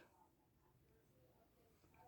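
Near silence: faint room tone in a pause between spoken phrases.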